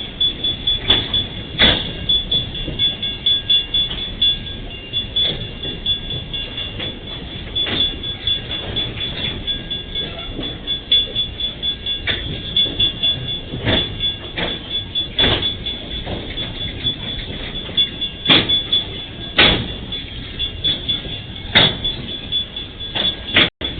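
Empty freight train rolling past: irregular loud clanks and knocks from the wagons and their wheels over the rail joints, with a steady high tone over them.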